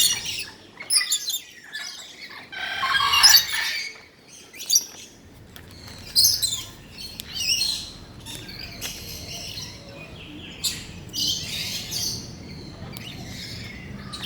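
Parrots calling: a busy mix of short chirps and harsher squawks, with the loudest call about three seconds in.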